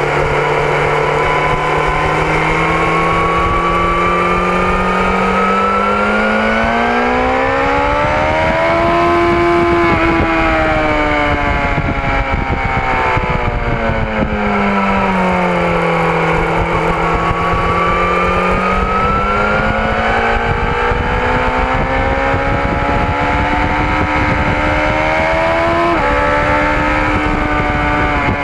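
BMW S1000RR inline-four sportbike engine at speed over a steady rush of wind. The revs climb, ease off, then climb again, and the pitch drops suddenly about 26 seconds in with a quick gear change.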